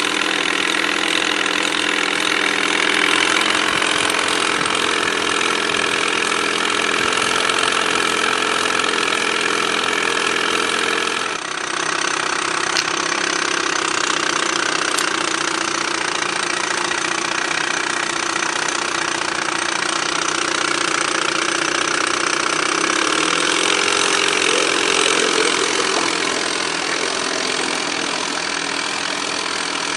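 1988 Evinrude Yachtwin 4 HP two-stroke twin-cylinder outboard motor running steadily. About eleven seconds in, its sound dips briefly and then carries on at a slightly different note.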